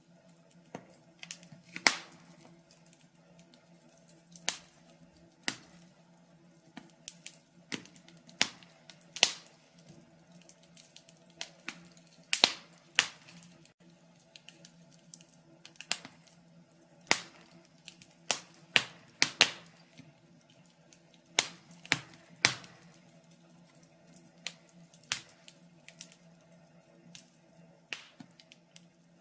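Log fire crackling in a fireplace: irregular sharp pops and snaps, sometimes in quick clusters, with quieter gaps between.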